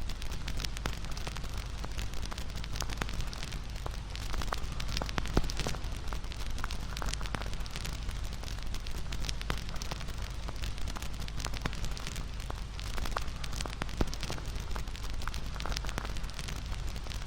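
Wood fire crackling, with many sharp snaps and pops over a steady low rumble of burning. The sharpest pops come a little after five seconds and near fourteen seconds.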